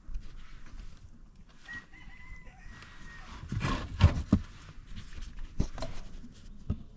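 Chickens calling, with a rooster crowing, amid several sharp knocks and thumps, the loudest about four seconds in.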